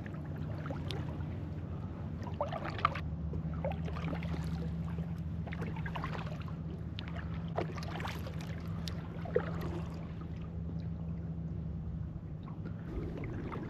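Kayak paddling on calm water: small, irregular splashes and drips from the paddle. Beneath them is a steady low hum that fades out near the end.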